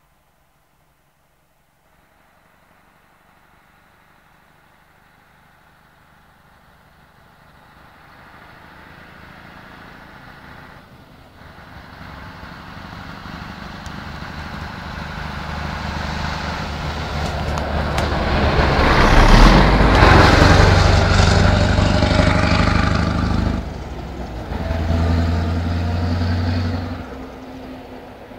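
Scania 144-530 truck's V8 engine coming closer under power, growing steadily louder to its loudest about twenty seconds in as it passes. It dips suddenly, picks up again for a few seconds, then fades away.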